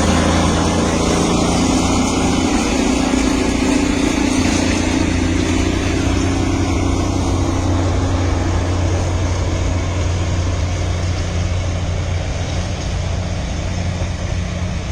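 Vehicle engine running steadily with a low drone under constant running noise; a higher hum fades out about five seconds in.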